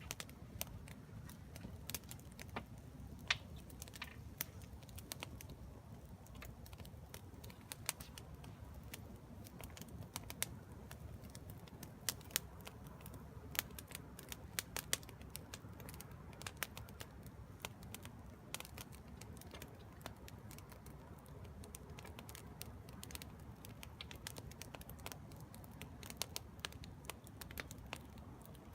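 Wood fire in a fire pit crackling: irregular sharp pops and snaps over a low steady rumble. The fire has just caught on gathered green wood.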